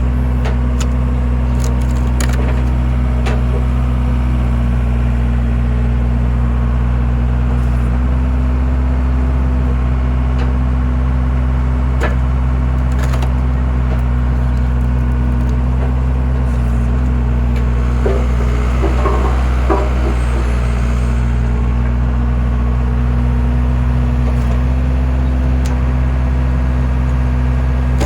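Skid steer engine running steadily while a homemade wood-splitter attachment splits firewood, with scattered sharp cracks of wood giving way and a cluster of cracking and creaking about two-thirds of the way through.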